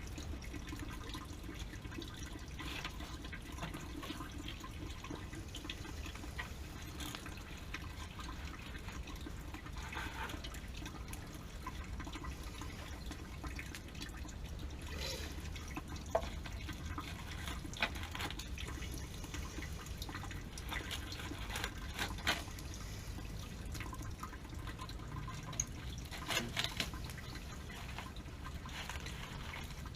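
Water dripping and trickling, with a few light clicks and knocks scattered through it.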